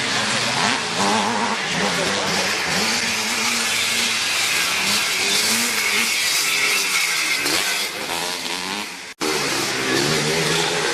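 Several classic motocross motorcycle engines revving, their pitch rising and falling as they race, with overlapping engine notes. The sound cuts out for an instant about nine seconds in, then the engines carry on.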